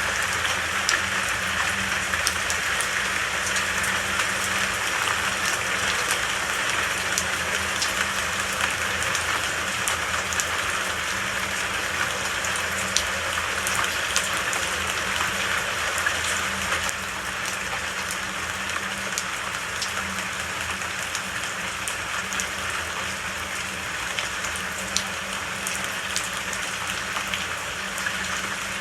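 Steady rain falling, with scattered sharp ticks of individual drops, easing slightly about two-thirds of the way through.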